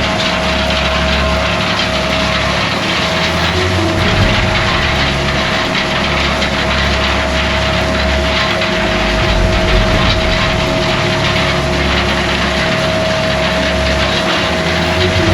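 Heavy farm vehicle engine running steadily with a constant whine over a low rumble.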